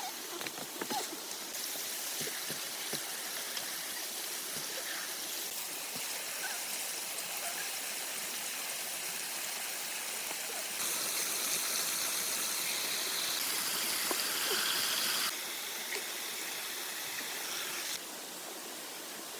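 Steady hiss of running water, like a stream, with a few faint clicks. Its level jumps up or down abruptly a few times.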